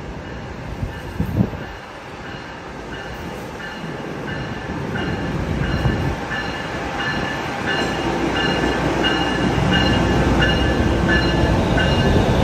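NJ Transit ALP-45DP locomotive and train pulling into a station, its wheels and running noise growing louder as it comes alongside, with a bell ringing about twice a second. A sharp knock sounds about a second in.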